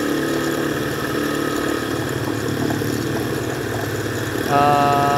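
Modified Honda C70 motorcycle engine running steadily. About four and a half seconds in, a horn beeps once, briefly.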